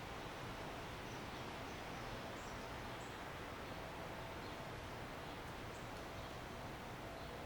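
Residential backyard ambience: a steady, even background of outdoor noise with a faint steady hum. Short, faint, high bird chirps come a handful of times.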